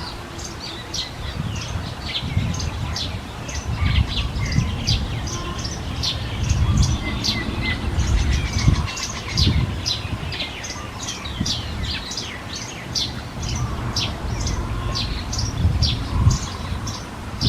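Small birds chirping continuously: many short, high, downward-sliding chirps, several a second, with irregular low rumbles underneath.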